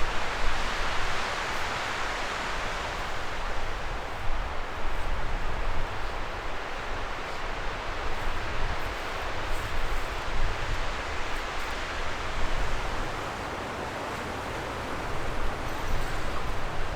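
Steady outdoor rushing noise with an uneven low rumble underneath.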